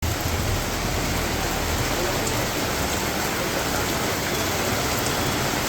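Heavy rain pouring steadily in a strong wind, with a low rumble of wind on the microphone.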